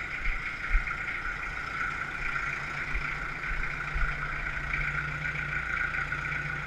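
Kubota L48 tractor's four-cylinder diesel engine idling steadily just after a cold start, with a steady high whine over it and a few dull low knocks.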